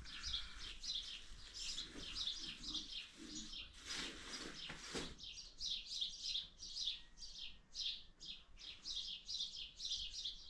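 A bird chirping over and over, about two or three short high chirps a second, with a brief noise about four to five seconds in.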